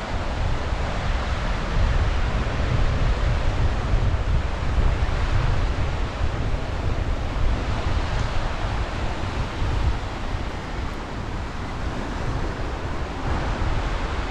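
Sea waves washing onto the shore in a steady rush of surf, with wind buffeting the microphone as a low rumble.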